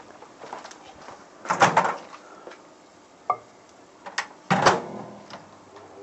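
Microwave oven door being handled with a cup of water: a loud clunk about one and a half seconds in, a short sharp click near the middle, and another loud clunk as the door is shut about four and a half seconds in, after which a faint steady hum begins.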